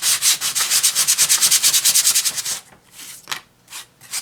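Fine-grit sandpaper rubbed by hand over a painted wooden cutout, in quick back-and-forth strokes about five a second, smoothing the painted surface. The strokes stop about two and a half seconds in, and a few single strokes follow near the end.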